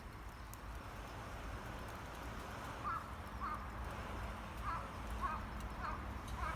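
A crow cawing, a run of short calls about two a second that starts about halfway through, over steady low outdoor background noise.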